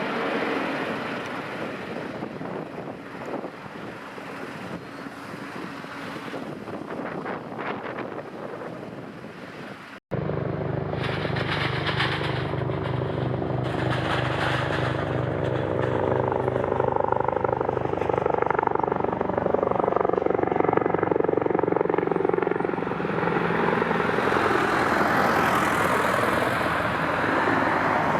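Engine noise of airplanes coming in to land. An aircraft rushes past, then the sound cuts off abruptly about ten seconds in. A second plane's engine drone follows, with several steady tones that grow louder as it nears.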